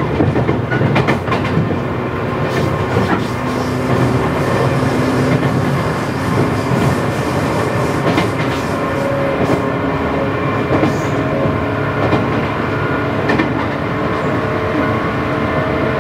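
JR 117 series electric train running at steady speed, heard from inside the carriage. Its traction motors and gears give a steady hum of several held tones over the rumble of the wheels, with wheels clicking over rail joints now and then, most often in the first few seconds.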